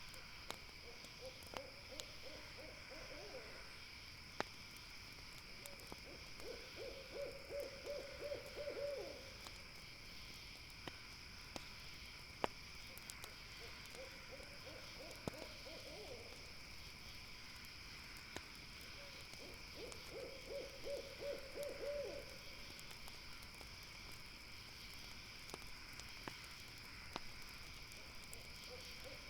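An owl calling at night in a run of rapid trilled hoots, each phrase lasting two to three seconds and repeating about every six or seven seconds. Under it run a steady high insect chirring and sparse sharp campfire crackles.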